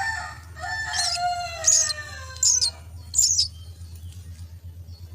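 A rooster crowing: one long call that slowly falls in pitch over about three seconds. Three or four short, shrill, high bird chirps sound over the end of the crow. After that only a low, steady hum remains.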